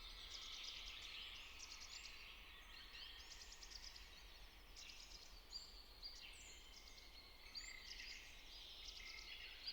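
Faint birdsong: many short chirps and little high whistles over a quiet outdoor background.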